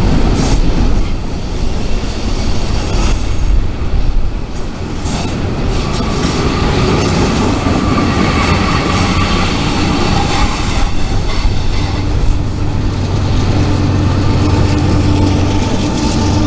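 Freight train rolling on the rails, a continuous heavy rumble with some high wheel squeal; a steady low diesel hum grows stronger about eleven seconds in.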